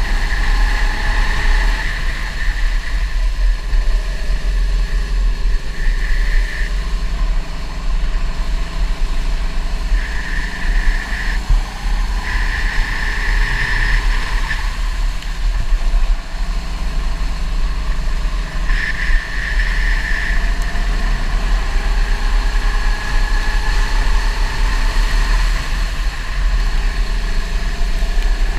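Go-kart engine running at speed, its pitch rising and falling in long glides as the kart accelerates and slows, over a constant deep rumble.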